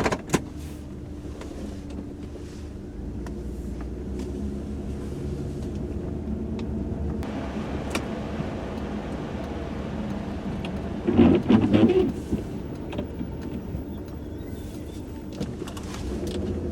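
A 1995 Chevrolet Monte Carlo's 3100 V6 running as the car pulls away, heard from inside the cabin with the heater blowing, the engine and road noise growing steadily louder. A short, louder burst of sound comes about eleven seconds in.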